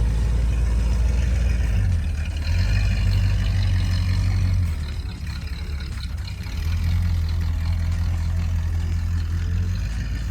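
1988 Chevy C1500 pickup's engine running with a loud low rumble; the rumble rises about two seconds in, eases off around five seconds, then picks up again.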